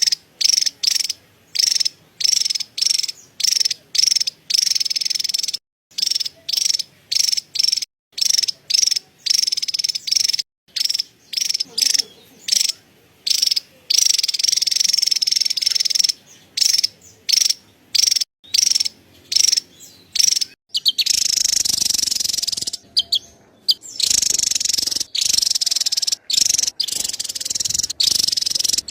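Javan tesia giving its high-pitched chattering call in short bursts, roughly two a second, which run together into an almost unbroken chatter about two-thirds of the way in.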